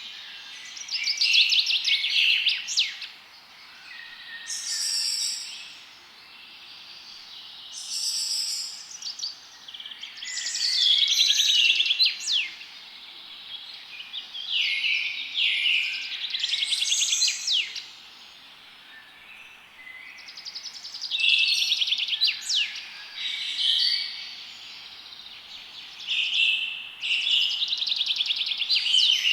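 Songbirds singing in short bursts of rapid trills and quick chirps every few seconds, over a steady background hiss.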